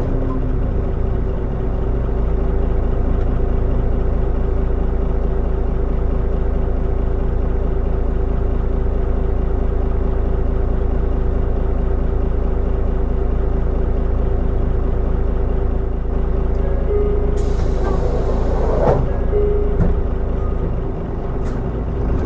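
Mitsubishi Fuso Aerostar city bus's diesel engine running steadily under way. About seventeen seconds in comes a short burst of air hiss from the bus's air system.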